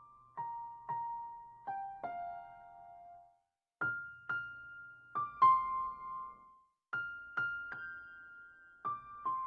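A slow, simple melody picked out one note at a time on a piano-toned keyboard. Each note is struck and left to ring and fade, with a brief pause about a third of the way in.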